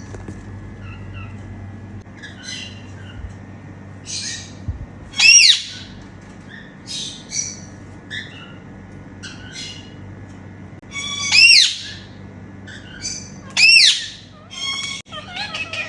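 Indian ringneck parakeets squawking: three loud, shrill screeches, about five, eleven and fourteen seconds in, with softer chirps between them.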